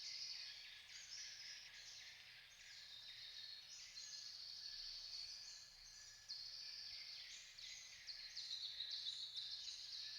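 Faint, dense and continuous high-pitched chorus of overlapping bird chirps and insect trilling.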